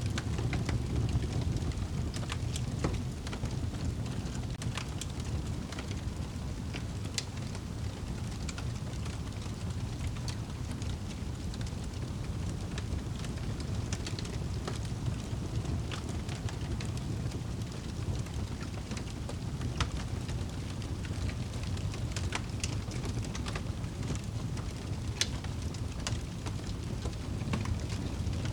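Wood fire burning in a fireplace: a steady low rumble of the flames with sharp, irregular crackles and pops.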